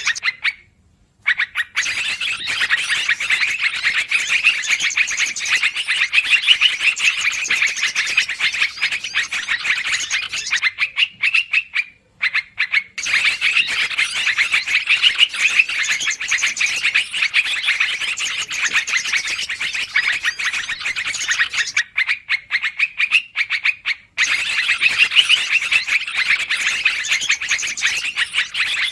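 Yellow-vented bulbuls (trucukan) chattering rapidly and continuously, a busy flock-like bird-lure call. It stops briefly about a second in, again around the middle, and again about three quarters of the way through.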